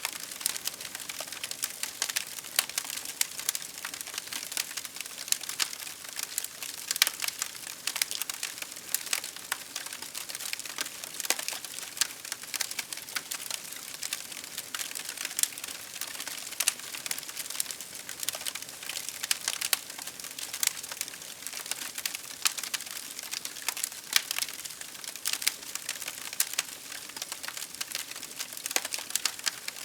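Wood fire crackling steadily, with dense, irregular pops and snaps over a soft hiss.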